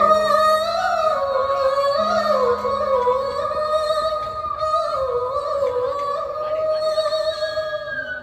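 A woman singing a long, sustained melodic line with slow pitch bends and small ornamental wavers, over faint accompaniment; the sound fades near the end.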